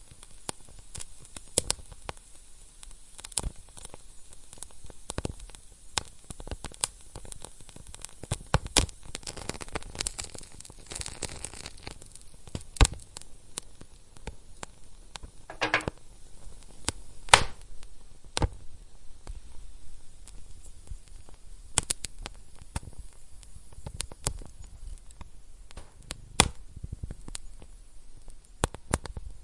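Wood fire burning in a fireplace: irregular sharp crackles and pops over a soft steady hiss, with a brief stretch of hissing about ten seconds in.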